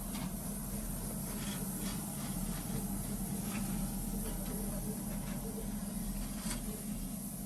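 A steady low machine hum or drone, with a few faint light clicks or taps over it.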